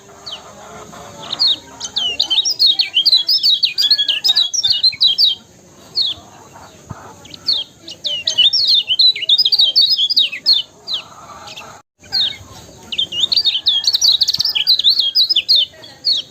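Kecial kuning songbird singing a rapid, high chirping song in fast bursts of sharp up-and-down notes, broken by short pauses. The sound drops out for a moment about twelve seconds in.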